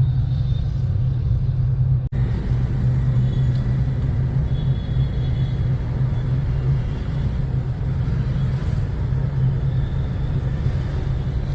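Steady engine hum and road rumble from a moving vehicle, with a brief dropout about two seconds in.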